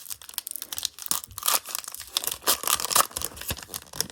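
A baseball card pack wrapper being torn open and crinkled in the hands, a dense run of irregular crackles and rips.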